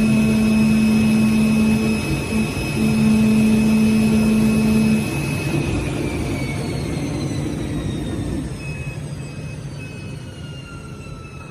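CNC oscillating-knife cutting machine running steadily with a low hum and a high whine, then winding down from about six seconds in, its whine falling in pitch and fading as the motor coasts to a stop.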